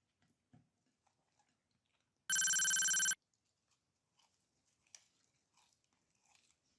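A short electronic ringing sound effect, under a second long, that starts and stops abruptly, over faint chewing and small clicks.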